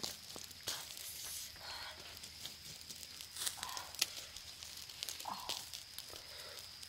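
Scattered clicks, short crackles and rustles, over a faint steady high-pitched whine.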